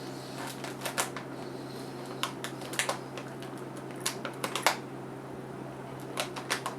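Small, sharp clicks and crackles in four short clusters, over a steady low hum.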